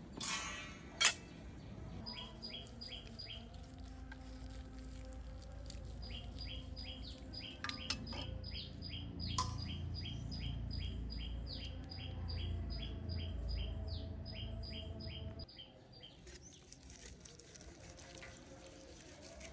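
A small bird chirping over and over, about three or four short two-note chirps a second, in a long run that stops near the end. Under it is a low rumble and a few sharp knocks, the loudest about a second in.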